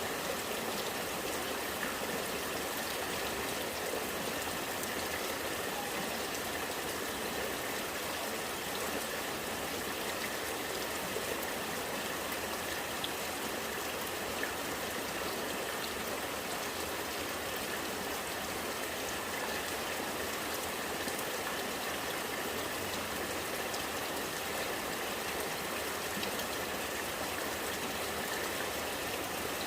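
Rainwater running and gurgling in a steady, even flow, like a small stream, with the patter of rain.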